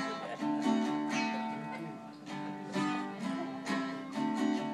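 Guitar strumming chords in a steady, bouncy rhythm, playing the instrumental intro of a song.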